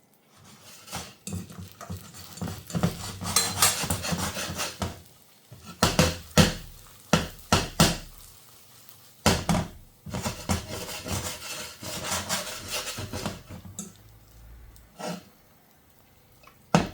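Kitchen clatter of dishes and cutlery: utensils and crockery knocking and clinking against one another in several bursts, with quiet gaps between.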